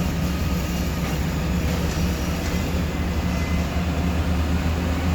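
A big construction forklift's engine running steadily, a continuous low drone.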